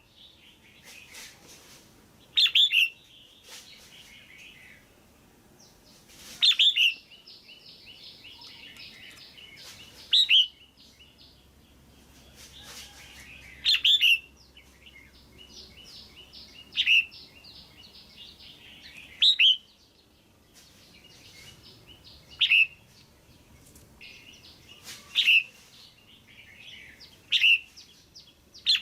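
Female red-whiskered bulbul calling: short, loud, sharp notes repeated every two to four seconds, with softer twittering chatter between them.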